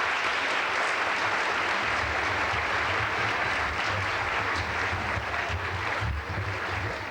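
Audience applauding, a dense steady clapping that eases off about six seconds in.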